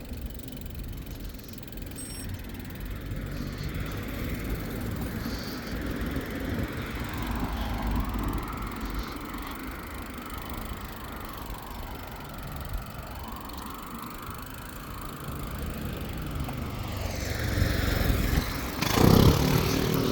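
Road traffic going by, a steady rumble with a vehicle passing close and loud near the end.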